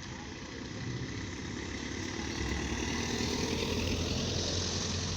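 A car engine running with tyre and road noise, growing louder from about a second in as the car draws near.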